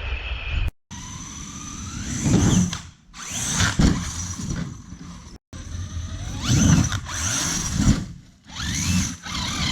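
Large brushless electric RC monster truck, a 1/6-scale Clodbuster driven by a 12S motor system, accelerating in repeated throttle bursts. Its motor and drivetrain whine rises in pitch with each burst, and there are heavy thuds from landings. The sound cuts off abruptly a few times.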